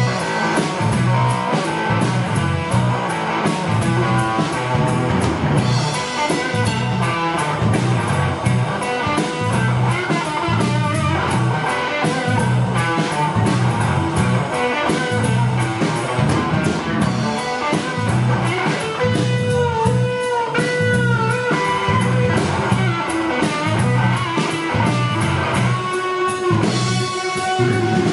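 Live rock band playing: electric guitar over a drum kit, with the guitar bending held notes about two-thirds of the way through.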